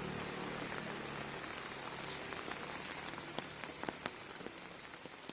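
Heavy rain falling, a steady hiss with many sharp ticks of single drops striking, easing slightly toward the end.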